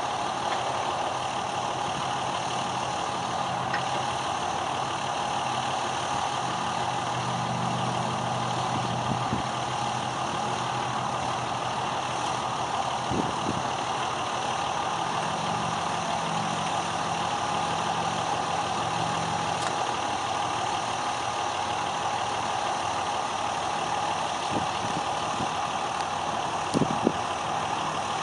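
Pickup truck engine idling steadily, its low note swelling twice as the engine is briefly brought up, with a few short knocks near the end.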